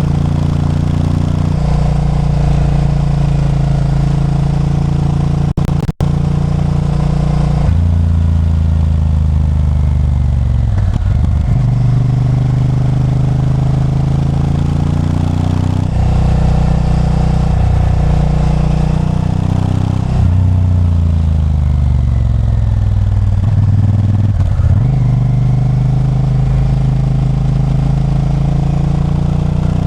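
Honda Varadero 1000's 90-degree V-twin engine running on the road, revs rising and falling repeatedly as it is shifted through the gears. The sound cuts out for an instant about six seconds in.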